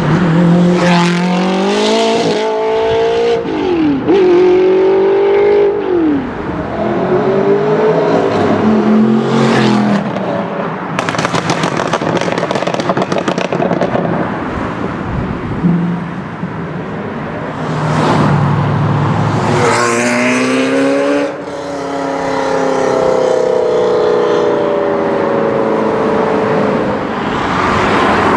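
Sports cars accelerating hard one after another, engine pitch climbing and dropping back with each gear change. About eleven seconds in comes a stretch of rapid crackling, and near the end an engine tone falls away as a car passes and recedes.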